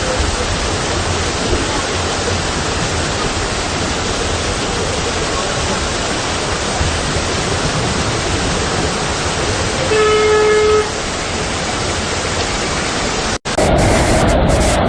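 Steady loud rush of heavy rain and floodwater around a stopped car. A car horn honks once, briefly, about ten seconds in. Near the end the sound cuts abruptly to a louder rush of water.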